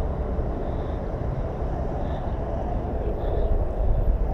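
Steady low rumble of a motorcycle moving slowly through street traffic, with wind on the helmet microphone.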